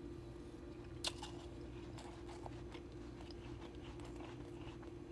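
Powdery soft ice cubes being bitten and chewed: one sharp crunch about a second in, then softer, scattered crunches as the ice is chewed.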